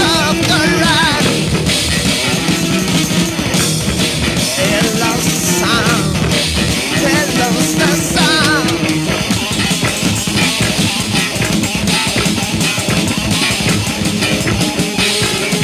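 Rock band playing an instrumental passage: electric guitar with wavering, bent notes over bass and a drum kit, steady and loud throughout.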